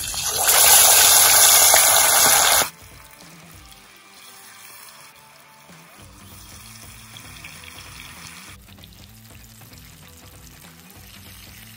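Marinated chicken pieces hitting hot oil for deep-frying: a loud sizzle for about two and a half seconds, dropping abruptly to a quieter steady frying sizzle that dies away at about eight and a half seconds. Quiet background music plays underneath.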